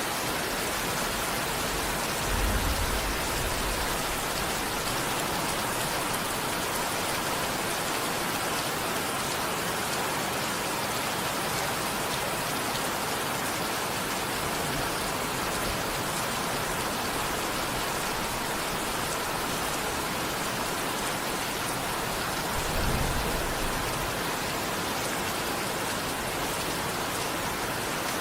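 Steady, dense rainfall hissing evenly, with two short low rumbles partway through.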